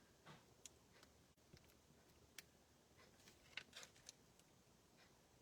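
Near silence with scattered faint, light clicks and taps as small adhesive embellishment dots are handled and pressed onto a paper card.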